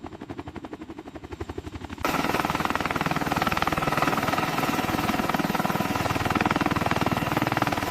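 Heavy-lift helicopter rotors beating in a fast, steady chop. It is quieter at first, then about two seconds in it turns suddenly much louder and denser and stays that way.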